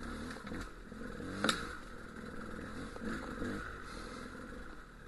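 Dual-sport motorcycle engine running and revving up and down as it picks over rough rock, with a sharp knock about one and a half seconds in.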